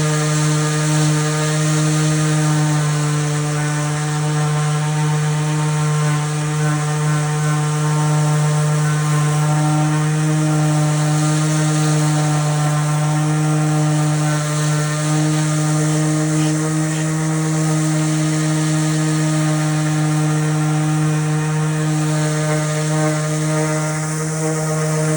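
DeWalt cordless brushless 5-inch random orbit sander running steadily as it sands a wooden post, a constant hum with a strong low pitch and a gritty rasp of the disc on the wood.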